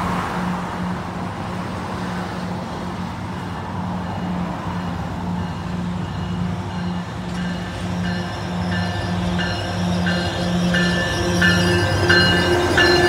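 NJ Transit ALP-45DP dual-mode locomotive approaching and passing under diesel power, its engine rumble growing louder as it nears. A bell rings in a steady rhythm, about one and a half rings a second, getting louder and brighter in the last few seconds.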